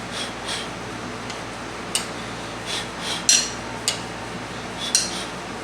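A spoon scraping and clinking against a dish in a string of short, irregular strokes as warmed homemade dog food is stirred and served.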